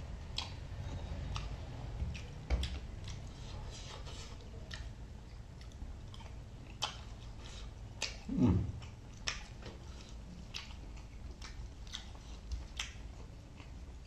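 A person chewing and biting food close to the microphone, with irregular wet mouth clicks and smacks. About eight and a half seconds in, a brief low hum falls in pitch.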